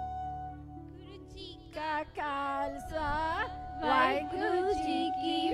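A child singing solo through a stage microphone and PA: a slow melody of long, wavering held notes with vibrato, starting about two seconds in. Underneath is a sustained instrumental note that fades out at the start.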